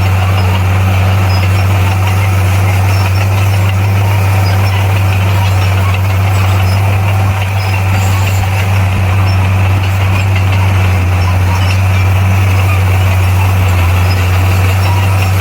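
Heavy earthmoving machine's diesel engine running at a steady speed: a loud, constant deep drone.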